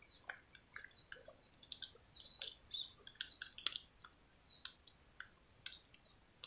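Small birds chirping and twittering, with short high calls, a couple of them falling in pitch about two seconds in. Scattered light clicks run underneath.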